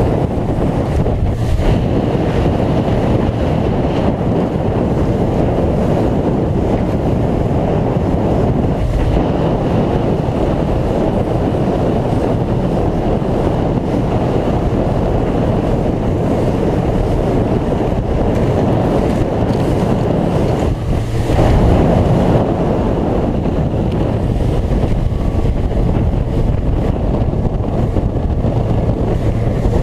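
Sea Pro 228 bay boat under way in a chop: the outboard runs steadily under heavy wind noise on the microphone, with the rush of water along the hull. There is one louder slam of the hull against a wave about two-thirds of the way through.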